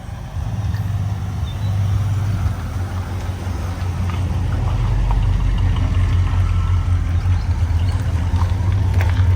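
Car engine running steadily at low revs, a deep even rumble that comes in about half a second in.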